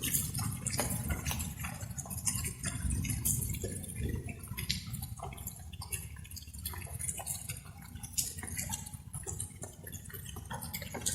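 Light rain: many irregular water drops plinking and splashing, over a steady low rumble.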